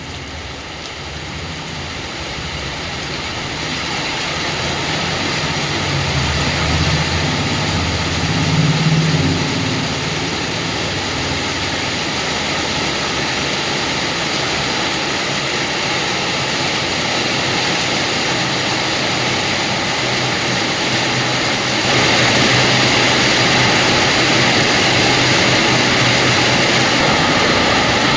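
Heavy rain pouring down in a steady, loud hiss that builds over the first few seconds and grows louder again about 22 seconds in. A low rumble swells and fades between about 6 and 10 seconds.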